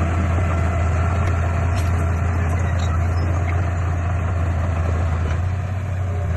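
Heavy-equipment diesel engine running steadily under work, with a deep, constant low hum.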